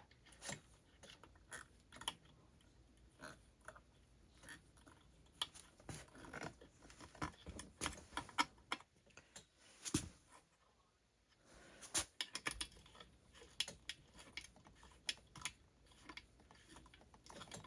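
Faint scattered metal clicks and small scrapes of a 3 mm Allen wrench turning the ignition module's bolts on a Husqvarna 288 XP chainsaw. The bolts have factory Loctite on them and go in tight. A couple of louder clicks come about ten and twelve seconds in.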